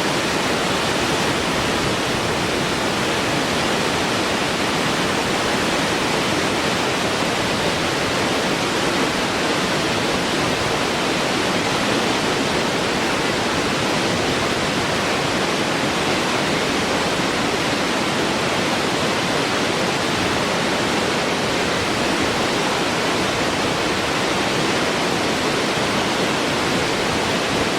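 Waterfall: water falling and splashing with a steady, unbroken rush.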